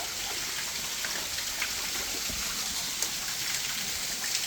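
Steady rush of falling water, an even hiss with a few faint ticks in it.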